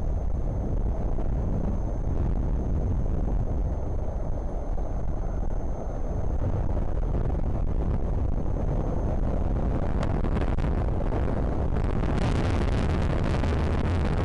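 Strong wind buffeting the nest camera's microphone: a steady low rumble. Harder gusts add a rushing hiss from about ten seconds in and again about two seconds later.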